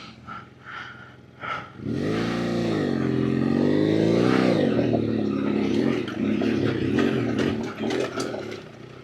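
BMW adventure motorcycle engine revving, starting about two seconds in with its pitch rising and falling under the throttle. It then runs rougher at more even revs and eases off near the end. A few light clicks come before the engine starts.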